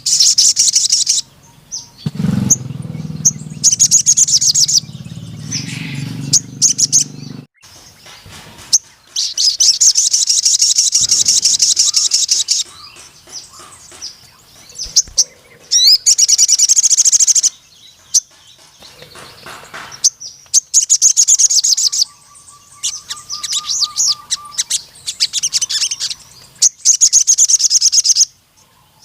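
Sogon (crimson sunbird) singing in fast, high, rattling trills that come in repeated bursts of one to three seconds with short pauses between them. A low hum sits under the song for a few seconds near the start.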